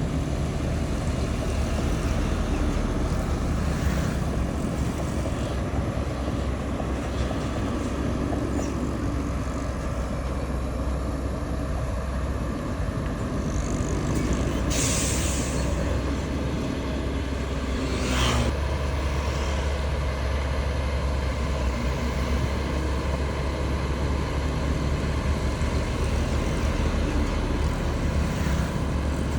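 Diesel engines of heavy earthmoving machinery, dump trucks and a bulldozer, running steadily with a deep drone. About halfway through there is a short hiss of air, then another brief burst a few seconds later.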